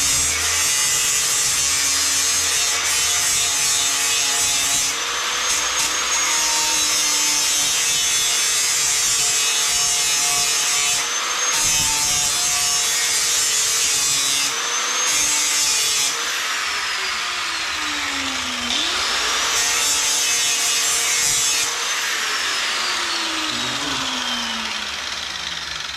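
Electric grinder sharpening a lawn mower blade. A steady motor whine runs under a hissing grind that comes and goes in passes of a few seconds each. The motor's pitch drops and picks back up in the middle, and it winds down near the end.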